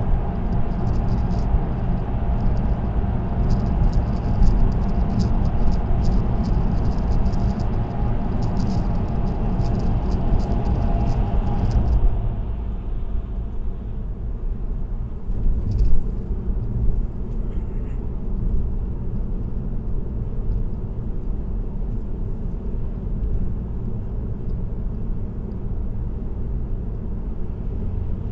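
Car driving at expressway speed: a steady rumble of tyres on the road. About twelve seconds in the noise suddenly turns quieter and duller, with a short bump a few seconds later.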